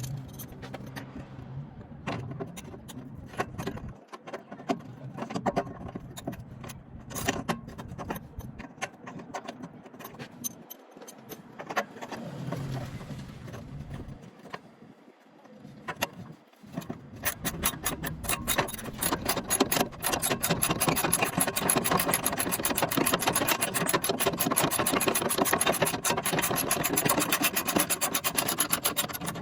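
Hand-tool work on metal battery hardware: scattered scrapes and clicks, then from a bit past halfway a long run of fast, even ratchet-wrench clicking, the loudest part.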